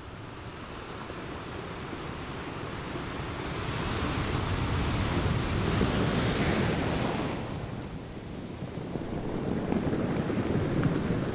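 Sea surf: an even rush of waves that swells about four seconds in, eases off near eight seconds and builds again toward the end.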